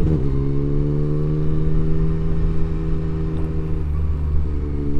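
Motorcycle engine running at a steady pace while riding, over a low rumble; its note shifts slightly about four seconds in.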